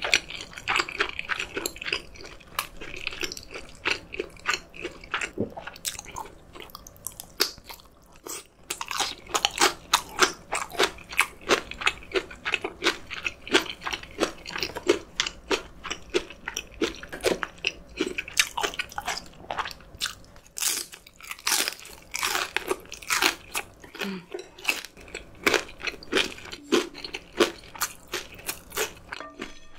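Close-miked crunchy chewing of fresh napa cabbage kimchi (geotjeori), a dense run of rapid wet crunches, several each second.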